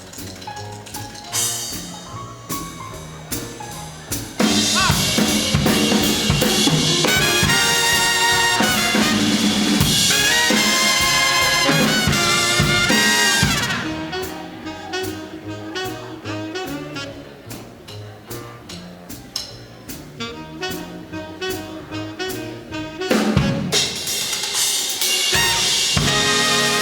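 Live big band playing an instrumental passage: drum kit stretches alternate with loud full-band brass sections, which come in about four seconds in, drop back to the drums after about nine seconds, and return near the end.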